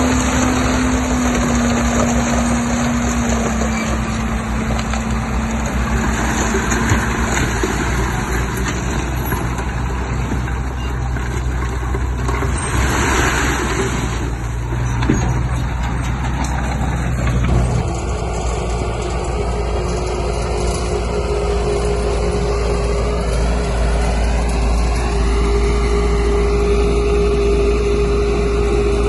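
Heavy diesel construction machinery running continuously with a steady engine drone and a faint whine. About eighteen seconds in the sound changes abruptly, and a higher steady whine carries on after it.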